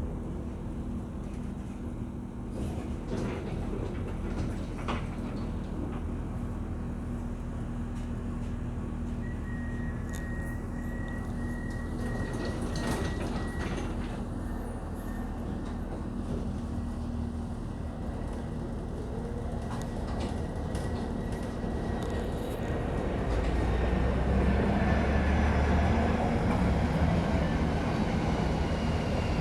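Steady low rumble of a moving vehicle with scattered clicks and knocks. A thin high whine runs through the middle, and the rumble grows louder near the end.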